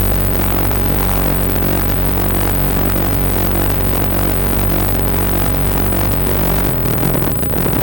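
Electronic music from a hardware synthesizer jam: a dense, steady texture over sustained low bass tones, with a change in the sound near the end.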